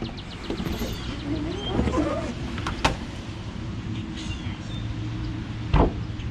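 Knocks and clicks of a paddleboard being released and lifted off its rack, with a sharp knock about three seconds in and another near the end, over a low steady hum.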